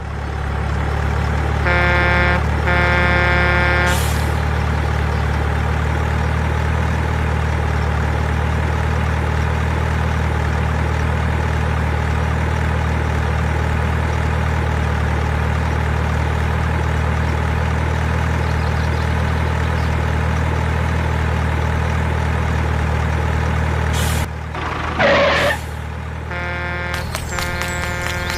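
Steady low drone of a truck engine, with two short horn blasts about two seconds in. The drone cuts off near the end, followed by a loud brief whoosh and two more horn blasts.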